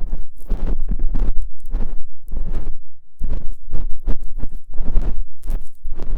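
ASMR ear-cleaning sounds: an ear-cleaning tool scraping and rubbing against a microphone close up, in repeated strokes about twice a second with a heavy low rumble and a brief pause about three seconds in.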